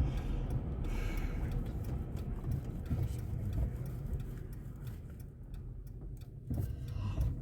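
Car driving, heard from inside the cabin: a low road and engine rumble that eases off and grows quieter around five seconds in, with faint scattered clicks.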